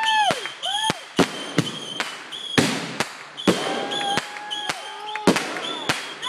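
Fireworks going off in quick succession: a rapid string of sharp bangs and pops, with short whistling tones among them.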